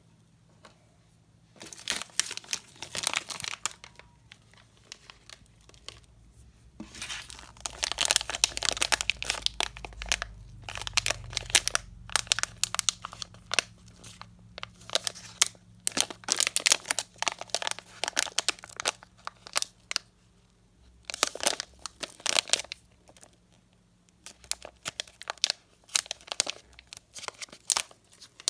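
Candy packaging being crinkled and torn open, in bursts of crackling with short pauses between.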